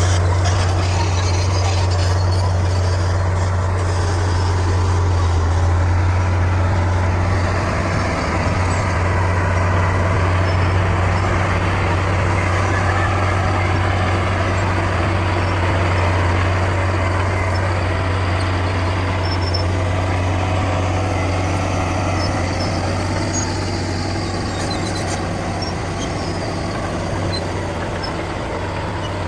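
Bulldozer's diesel engine running steadily, a strong low drone with a noisy mechanical layer over it, easing slightly in level near the end.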